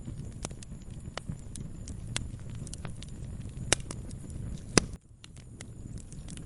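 Wood fire crackling in a fireplace: irregular sharp pops and snaps over a low steady rumble of flames, with two louder pops a little past the middle. The rumble briefly drops away about five seconds in, then returns.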